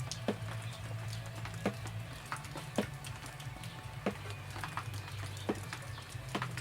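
Raindrops falling in scattered, irregular ticks over a steady low hum.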